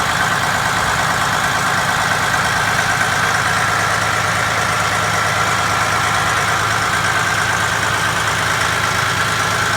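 2008 Freightliner Cascadia's heavy-truck diesel engine running steadily, likely at idle, with an even low rumble and a steady high whine over it.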